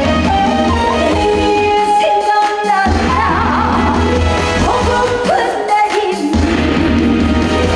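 A woman singing a Korean trot song live with vibrato over amplified band accompaniment with a heavy bass line; the bass drops out briefly twice.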